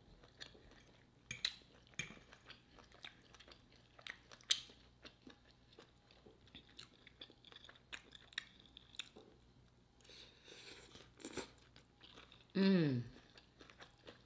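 Chewing and crunching of a shrimp, sausage and cabbage stir fry, with many small wet mouth clicks. Near the end, a short vocal sound that falls in pitch.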